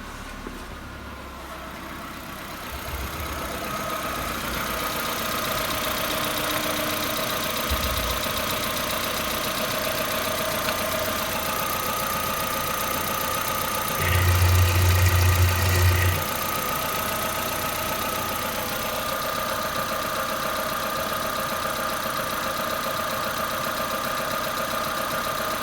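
Suzuki Baleno's 1.6-litre G16B four-cylinder petrol engine idling steadily, growing louder over the first few seconds and then holding an even note. About halfway through, a louder low steady hum sounds for about two seconds.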